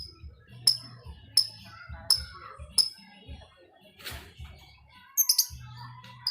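Lovebird giving short, sharp ticking chips (the 'ngetik' call) at an even pace, about one every 0.7 seconds, then a harsher call about four seconds in and a quick run of higher chirps a second later.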